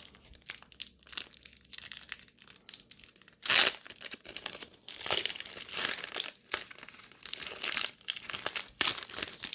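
Crinkling and rustling of a trading-card pack wrapper and cards being handled, with irregular crackles, the loudest about three and a half seconds in.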